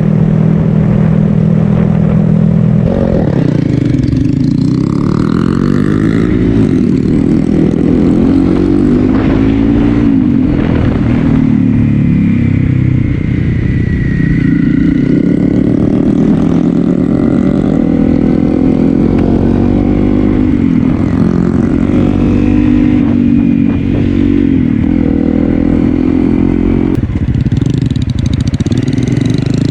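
2018 Honda Grom's 125 cc single-cylinder engine running through an aftermarket Ransoto slip-on exhaust while riding. Its pitch holds steady for about three seconds, then rises and falls again and again as the rider accelerates, shifts and eases off.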